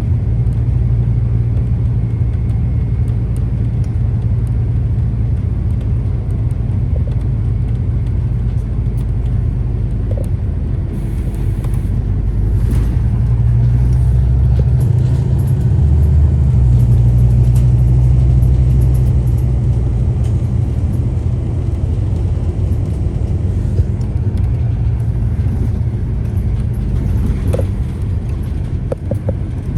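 Scania CK320UB Citywide city bus's engine running with a steady low drone, swelling louder for several seconds about halfway through as the bus pulls harder, then easing back.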